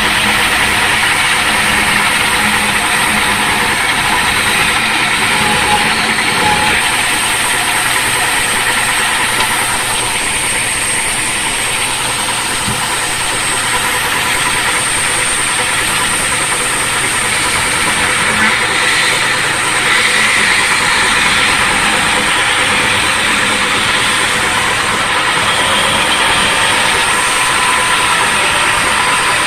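Machinery running steadily: a loud, even mechanical noise with a thin high whine held throughout.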